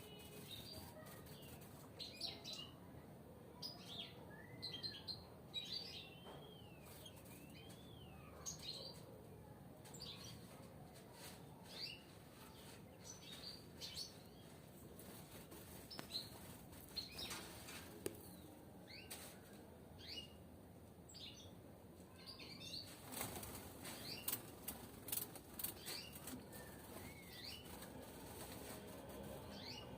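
Caged European goldfinches chirping in short, twittering calls, with repeated wing flutters; a longer flurry of flapping comes about three quarters of the way through.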